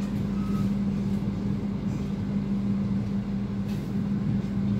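Passenger train running, heard from inside a coach: a steady rumble with a constant low hum.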